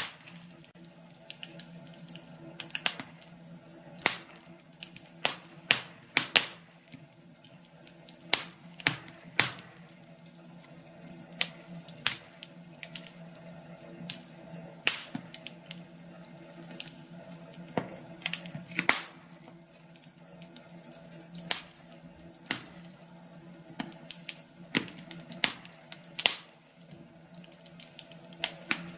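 Wood fire crackling, with irregular sharp pops and snaps, sometimes several a second, over a steady low background.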